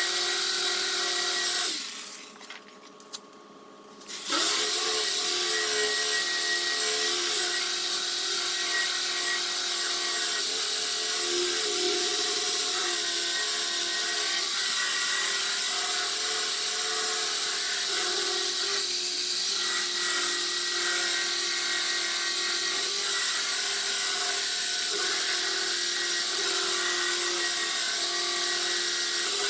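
Power sander abrading a car's bodywork: it runs briefly, stops for about two seconds, then starts again about four seconds in and runs steadily with a humming pitch under a hiss of abrasive on the panel.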